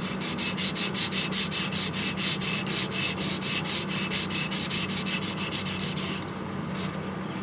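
Single-bevel yanagiba blade stroked back and forth on a whetstone with light pressure, about five quick, even rubbing strokes a second, stopping about six seconds in.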